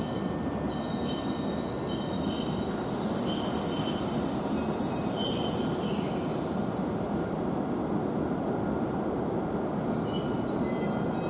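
E7 series Shinkansen train pulling slowly into the platform and coming to a stop: a steady running rumble with high, thin squeals from the brakes and wheels coming and going, and a hiss for a few seconds in the middle.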